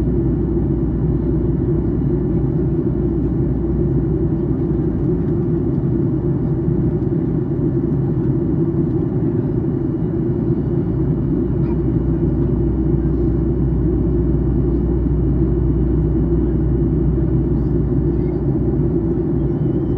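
Steady in-flight cabin noise of a Boeing 737-800 during descent: an even rumble of CFM56-7B engines and airflow heard from inside the cabin, with a faint steady high tone above it.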